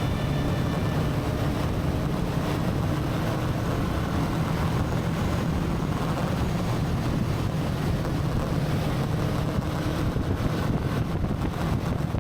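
Motorcycle engine running steadily at road speed, with heavy wind noise on the microphone.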